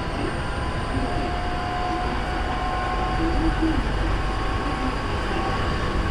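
Running sound inside a Hankyu 3300 series electric train under way: a steady rumble of wheels on rail, with a few thin whining tones over it.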